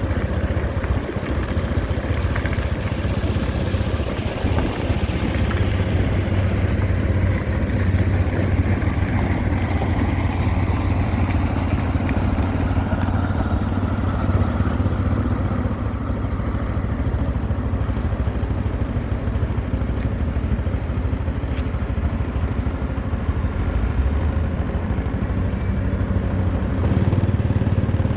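Diesel engines of road-paving machinery running steadily, a low, even hum with a little clatter, getting slightly louder near the end.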